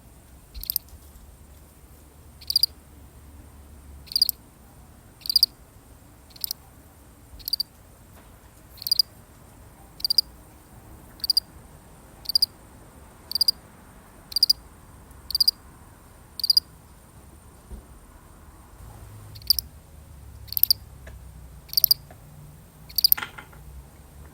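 A single field cricket chirping, with short chirps repeated at about one a second and a brief pause about two-thirds of the way through.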